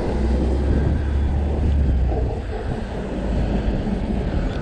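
Steady rumble of wind buffeting the microphone and road noise while riding a fat-tire e-bike; a deep low rumble, likely nearby traffic, eases off about two seconds in.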